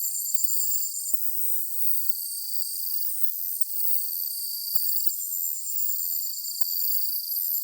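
Summer evening chorus of chirping insects, crickets among them: several high, steady trills layered together. One rapidly pulsing trill stops about a second in and comes back after about five seconds.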